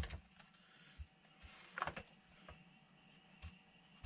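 A few faint, scattered knocks and clicks of wooden beehive frame parts being handled during assembly.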